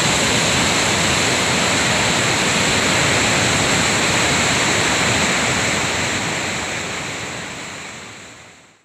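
Lohit River rushing, a steady loud roar of fast-flowing water that fades out over the last few seconds.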